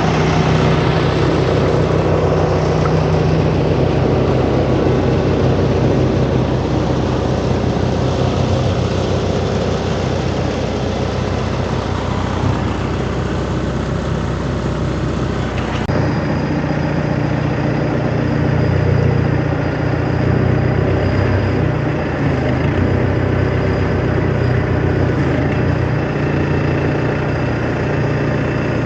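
A vehicle engine idling steadily, a low even hum that changes character abruptly about halfway through.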